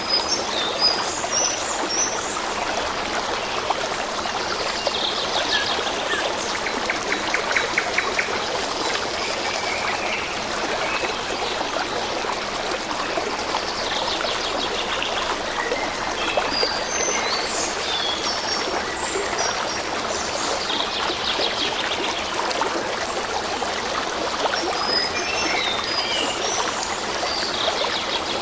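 Stream running steadily, with small birds chirping in short bursts. A fast, buzzy pulsed trill also recurs every several seconds.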